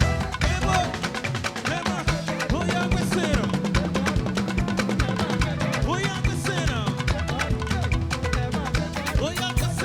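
A live church band playing an upbeat praise groove, with a steady, busy drum and percussion beat under pitched instruments.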